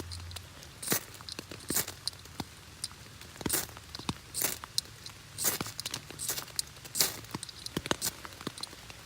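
Small ferrocerium rod struck repeatedly to throw sparks onto wet tinder: a series of short, sharp scrapes at irregular intervals of about a second.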